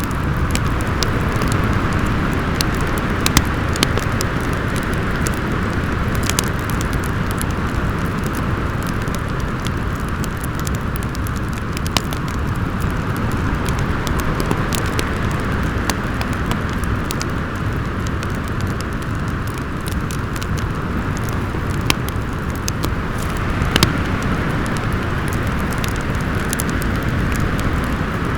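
Snowstorm wind howling with a low rumble, slowly swelling and easing, over a fireplace fire crackling with scattered sharp pops.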